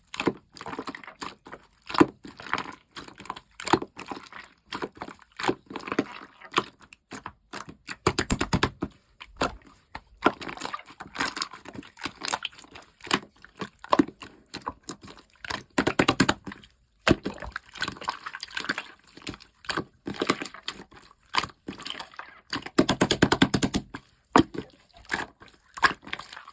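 Light-green clear slime being squished and pressed by hand, making wet sticky clicks and pops, with three runs of rapid crackling clicks about 8, 16 and 23 seconds in.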